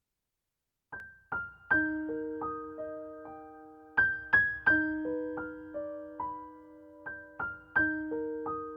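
Background music: slow piano notes and chords, each struck and left to ring and fade, starting about a second in.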